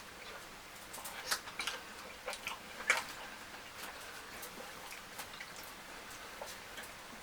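Close-miked eating sounds: scattered wet clicks and smacks of chewing and handling food. They are busiest in the first three seconds, with the loudest about three seconds in, then thin out to small ticks.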